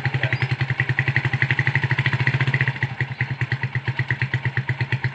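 Honda GL 100 motorcycle with its original stock exhaust, idling in an even putter of about a dozen pulses a second. It gets a little quieter about three seconds in.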